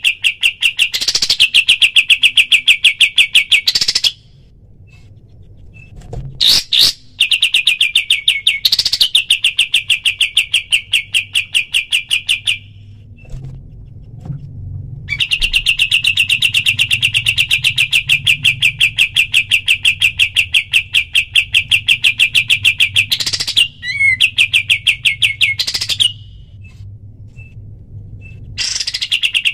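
Pied triller (kapas tembak) singing its rapid 'tembak' trill: runs of fast, evenly repeated high notes, each run lasting several seconds, broken by short pauses.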